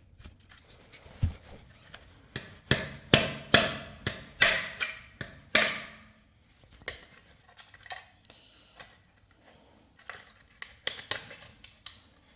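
Sharp knocks and clatters of hand work at a wall: a quick run of about eight hard strikes between about two and six seconds in, then scattered lighter ones.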